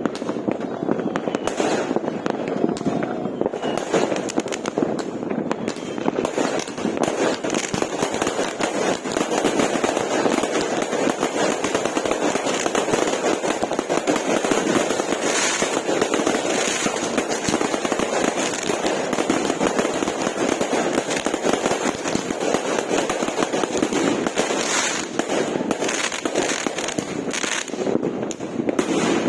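New Year fireworks going off in a dense, continuous barrage of bangs and crackles with no pauses.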